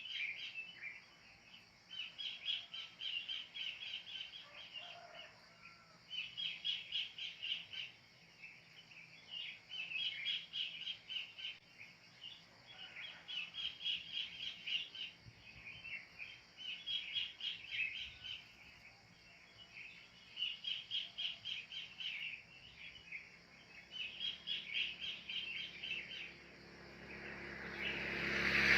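A kingfisher (cekakak) calling its rapid chattering series over and over, one burst about every two seconds. Near the end a broad engine-like rumble swells louder.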